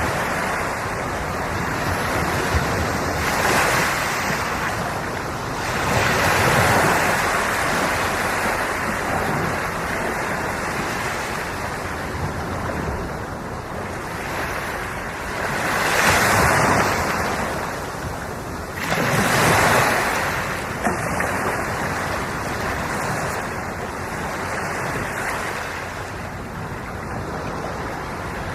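Sea waves breaking and washing ashore in a continuous rush, swelling every few seconds, with some wind on the microphone.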